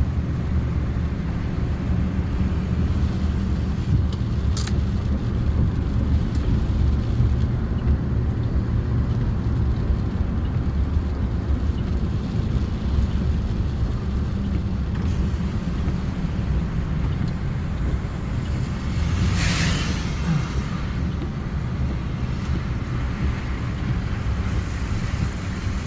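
Car driving, heard from inside the cabin: a steady low rumble of engine and tyres, with a brief rushing hiss about twenty seconds in.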